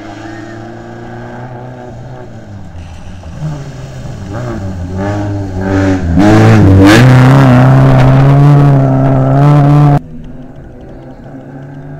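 Rally car engines on a dirt stage. One car is heard at a distance, then grows louder as it comes close at full throttle, with the revs dropping and climbing again about six to seven seconds in. It cuts off suddenly at about ten seconds to a quieter, distant car engine.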